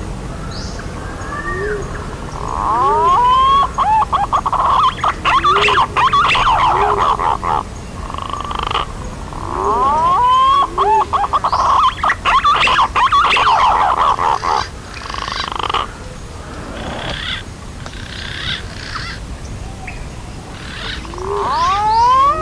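Green pigeon (punai) calls played as a lure recording: bouts of rising whistled glides mixed with rapid chattering, with shorter calls between bouts and a new bout starting near the end.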